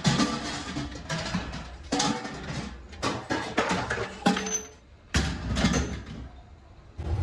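Aluminium kettle parts clanking and knocking together as they are handled, in irregular sharp strikes with a little ringing, and a low rumble joining about five seconds in.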